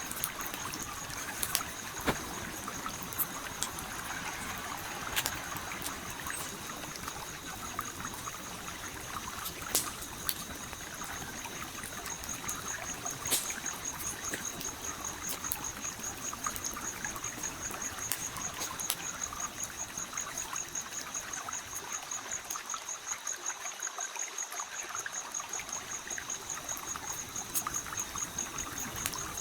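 Stream flowing and trickling steadily, with a few sharp pops from a crackling wood campfire. A thin, high-pitched pulsing tone runs steadily behind them.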